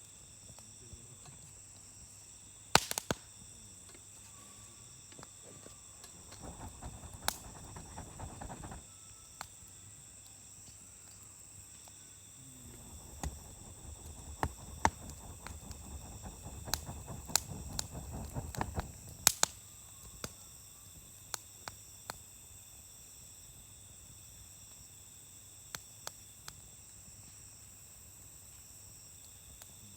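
Wood campfire crackling, with sharp scattered pops, the loudest about three seconds in and again near twenty seconds. Two spells of denser crackling last a few seconds each.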